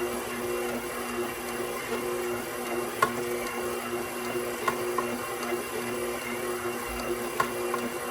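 KitchenAid Professional 6000 HD stand mixer's DC motor humming steadily at low speed as the spiral dough hook kneads bread dough, with a few short clicks from the hook and dough in the bowl.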